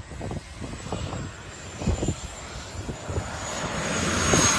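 Aircraft engine running, with a thin high-pitched whine that drifts slowly lower while the engine noise grows steadily louder. Scattered low thumps sit underneath.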